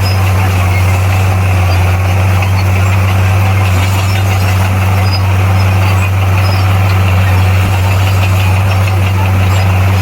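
Bulldozer's diesel engine running steadily with a loud, even low hum.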